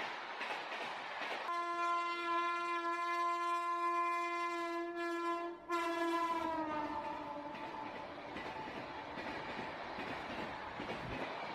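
Freight train's boxcars rolling past close by, a steady rumble of wheels on rails. About a second and a half in a train horn sounds one long note, breaks off briefly after about four seconds, then sounds again and slides down in pitch as it fades out; the horn is the loudest sound.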